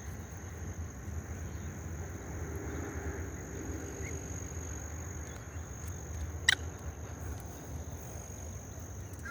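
Outdoor lakeside ambience: a steady high insect drone, such as crickets, over a low rumble of wind or handling noise. A single sharp click comes about six and a half seconds in.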